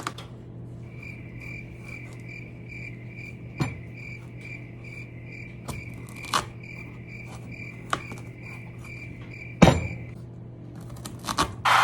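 Several sharp knocks of a knife chopping through a hard spaghetti squash onto a cutting board, the loudest near the end, over a high chirping that pulses about three times a second for most of the stretch.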